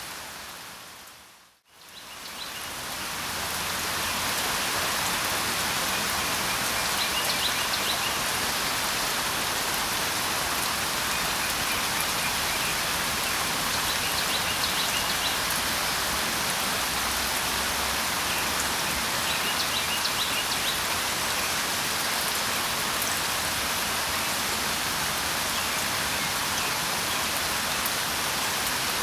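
Steady rain falling, an even hiss that fades out to silence about a second and a half in and fades back up over the next two seconds. Faint, short bird chirps come through the rain a few times.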